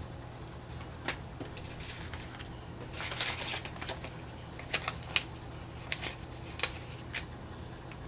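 Sticker sheets and planner pages being handled: a rustle of paper about three seconds in, and a scatter of short, sharp little taps and clicks from peeling and pressing stickers down.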